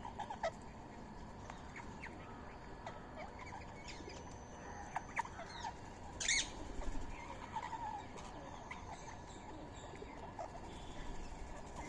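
Birds calling at a feeding spot: scattered short calls and chirps with small clicks, and one louder call about six seconds in.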